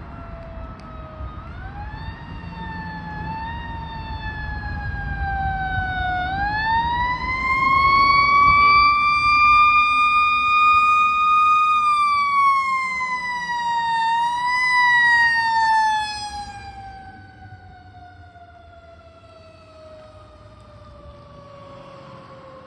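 Fire truck's Federal Q mechanical siren screaming: it winds up from a low wail to a high held scream, dips and rises once more, then coasts down in a long, steadily falling wail. Loudest in the middle, it fades sharply about two-thirds through while the pitch keeps falling, with the truck's engine rumbling underneath in the first half.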